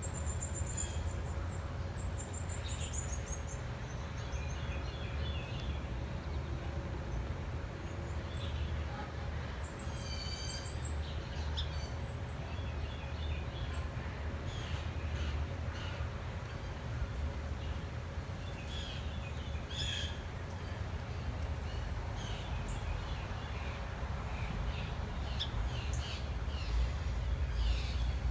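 Small wild birds chirping and trilling on and off, with a quick run of trills in the first few seconds, over a steady low rumble.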